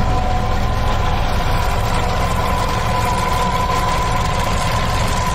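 Nissan Rogue's four-cylinder engine idling steadily, heard close up in the open engine bay, with a steady high whine running through it. The engine is judged in good working order.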